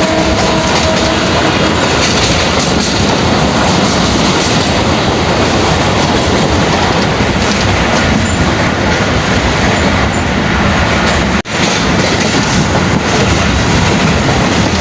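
Karachi Circular Railway passenger train running along the track, with a loud, steady rumble and clatter of wheels on rails. The sound drops out for an instant about eleven seconds in.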